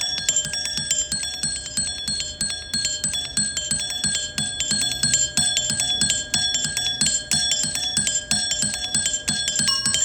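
Rapid, busy bell-like metallic strikes, each leaving high ringing tones at several different pitches, over a low repeating pulse.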